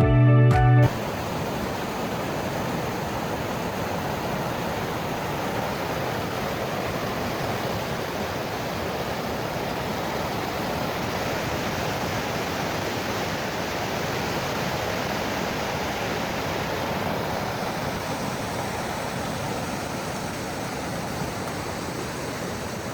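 Intro music cuts off within the first second, then water rushing steadily over river falls.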